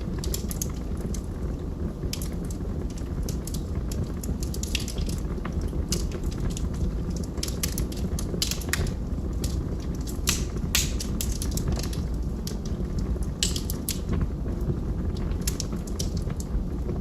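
Log fire crackling: irregular sharp pops and snaps, several a second and some louder than others, over a steady low rumble of burning.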